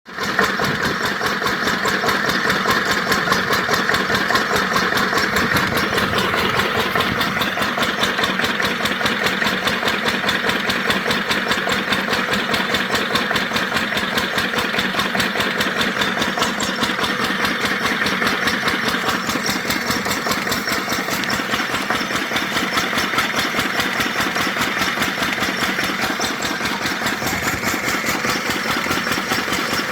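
8 HP single-cylinder stationary diesel engine running steadily with a fast, even firing beat, driving an irrigation water pump.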